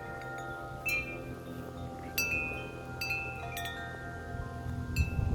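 Wind chimes blown by strong gusts: clusters of strikes about a second in, twice more around two and three seconds, and again near the end, each leaving several pitched tones ringing on and overlapping. A low rumble of wind rises near the end.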